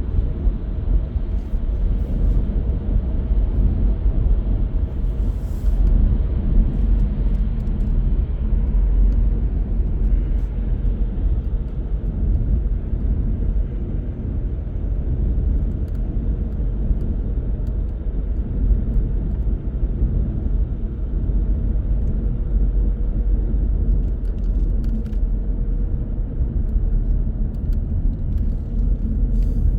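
A car driving along at a steady pace: a continuous low rumble of engine and tyre road noise, with no sudden events.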